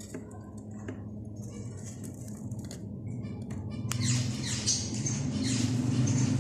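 Cage birds calling: scattered high chirps, then a run of loud, quick falling squawks starting about four seconds in, over a steady low hum.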